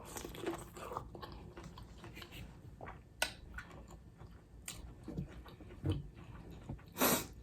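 Close-miked chewing and biting of soft seafood: quiet, irregular wet mouth clicks and smacks, with a few louder smacks later on.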